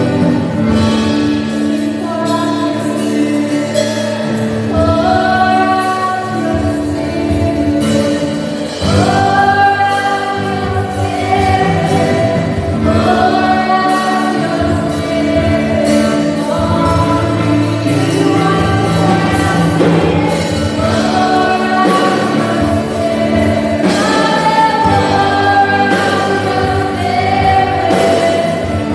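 A worship team singing a gospel praise song live, with several voices holding long notes over a band with keyboard and drums.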